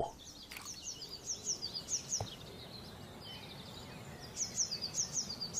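A small bird calling in a rapid run of short, high, falling chirps, about four or five a second, over faint outdoor ambience; the chirping stops for a couple of seconds in the middle and starts again near the end.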